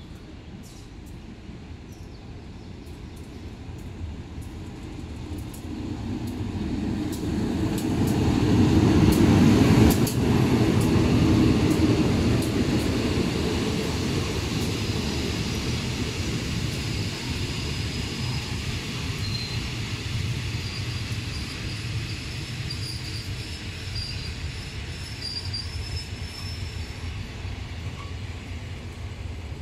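A train passing: its rumble builds over several seconds to its loudest about ten seconds in, then fades slowly, with a faint high wheel squeal in the latter part.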